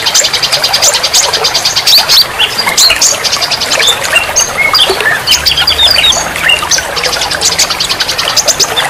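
Several songbirds calling at once: rapid high trills and many short chirps and whistled notes overlapping. A low steady hum joins about halfway through.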